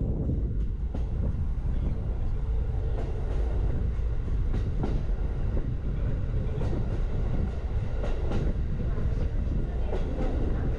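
Norokko sightseeing train's open-windowed observation car running along the track, with a steady low rumble of wheels on rail and irregular clicks and knocks.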